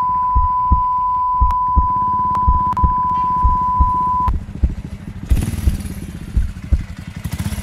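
A steady high-pitched tone over regular low thumps, which cuts off about four seconds in. A motorcycle engine then runs as the bike pulls away.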